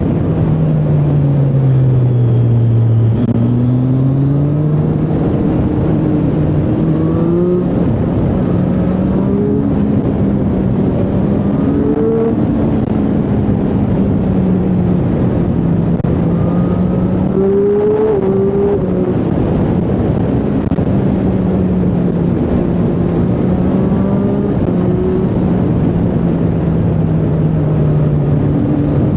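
Triumph Street Triple 765R's inline three-cylinder engine under way while riding. Its note falls over the first three seconds as the bike slows, then climbs and dips repeatedly through the rest, over a steady noisy rush.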